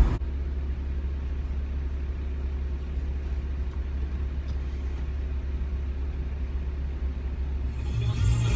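Steady low drone of a 2006 Porsche Boxster's mid-mounted 2.7-litre flat-six and road noise as the car cruises at an even speed. Music comes in near the end.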